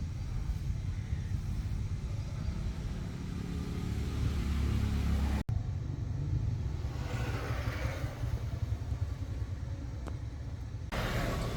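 Truck engine running with a steady low rumble, broken by a brief cut about halfway through.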